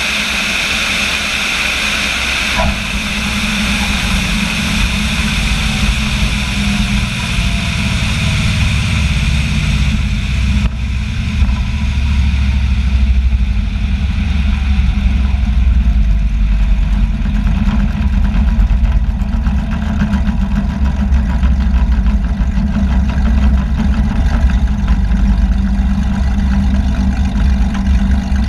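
Small aircraft's engine and propeller running steadily, heard from inside the cabin. A high rushing hiss cuts off about ten seconds in, after which the low engine drone is stronger.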